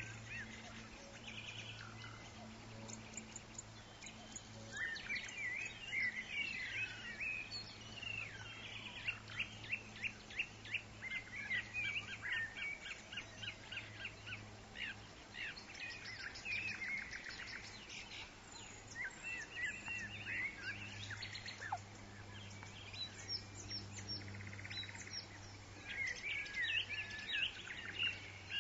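Several birds singing and calling over one another in forest ambience, with quick chirps and fast rattling trills throughout. A faint steady low hum runs underneath.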